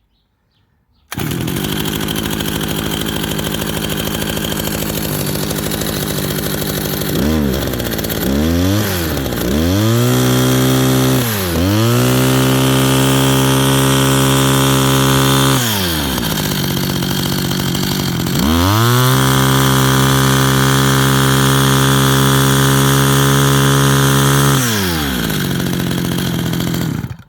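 Kawasaki KT12 small two-stroke strimmer engine running just after a cold start: it idles, is blipped up and down a few times, held at high revs twice with drops back to idle in between, and then stops suddenly near the end.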